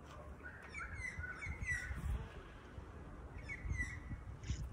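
Small songbird chirping: a quick run of four short chirps about a second in, then two more a little past the middle, over a faint low rumble.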